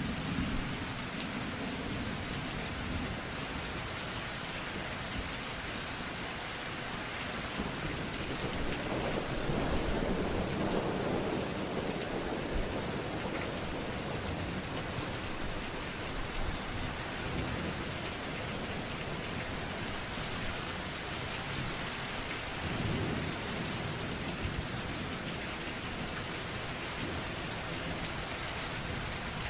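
Steady rain falling, with rumbles of thunder: a long low roll swelling about eight seconds in and a shorter one later.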